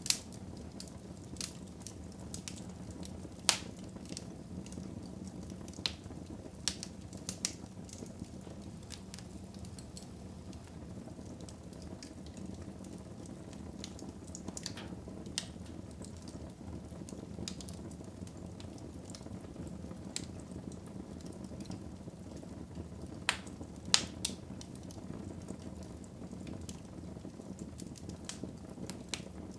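Wood fire burning in a fireplace: a steady low rumble of flame with scattered sharp crackles and pops, the loudest pops about 3.5 s in and twice around 23 to 24 s in.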